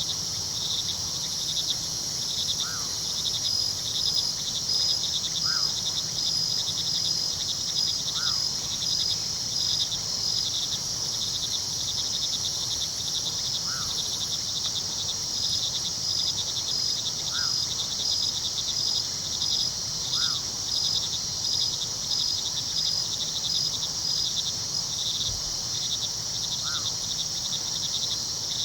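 Crickets chirping steadily in a dense, rhythmic chorus. A faint short call repeats about every three seconds, over a low steady rush of river water.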